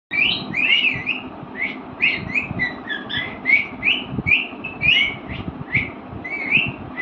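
Pet parrot chirping and whistling in a rapid series of short calls that bend up and down in pitch, about two to three a second.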